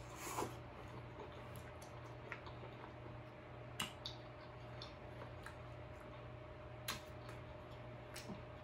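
Close-up eating sounds of king crab meat: a short slurp as the meat is sucked in at the start, then closed-mouth chewing with a few sharp, wet mouth clicks spaced seconds apart. A faint steady hum runs underneath.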